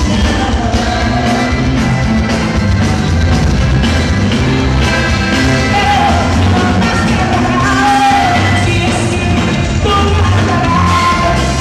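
A band playing continuous, loud music with a singing voice over a steady beat.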